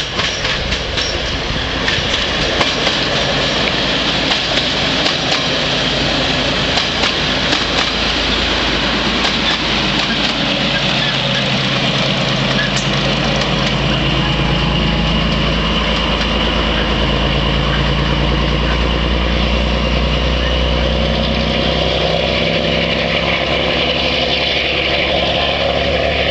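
MÁV M41 diesel-hydraulic locomotive pulling away from a station, its diesel engine working hard under load. The engine runs loud and steady throughout.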